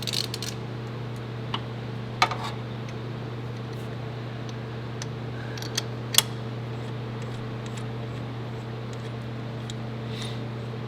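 A few sharp metallic clicks and clinks of hand tools working on the engine, over a steady low hum.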